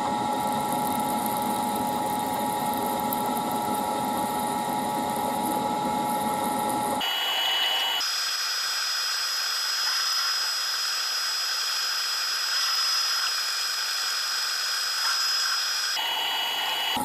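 Milling machine spindle running and drilling a 31/64 in hole through an aluminium test piece, a steady mechanical whine. About seven seconds in the sound changes abruptly, losing its low end and carrying a higher steady whine, and it returns to the first sound near the end.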